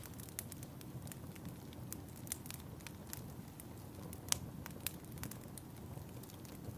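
Wood fire burning, with a steady low rumble and irregular sharp crackles and pops, the loudest pop about four seconds in.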